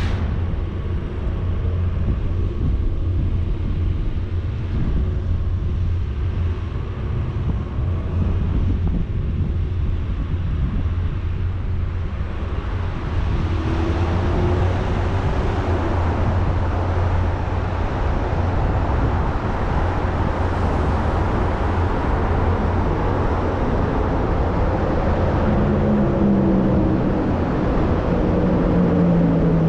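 A motor vehicle driving on a road: a steady low engine rumble with road and wind noise that grows louder about halfway through, and engine tones that drift in pitch near the end.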